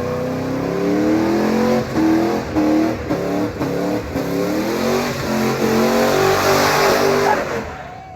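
Truck engine revved hard again and again, its pitch rising and falling, with a hiss building up toward the end before it dies away.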